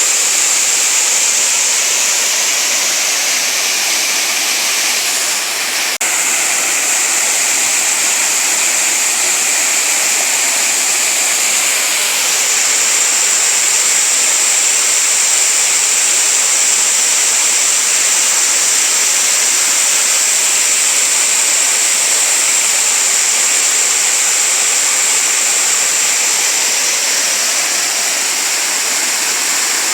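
Waterfall pouring steadily into a stream, a loud, even rush of falling and running water.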